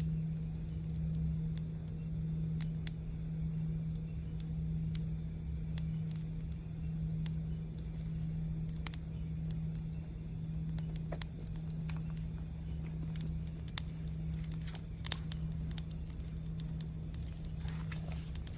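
A singing bowl's low sustained ring, slowly pulsing in strength, over a crackling campfire with scattered sharp pops, one louder pop about fifteen seconds in.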